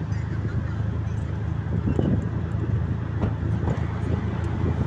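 Vehicle engine and road noise as a steady low drone, with a few short knocks.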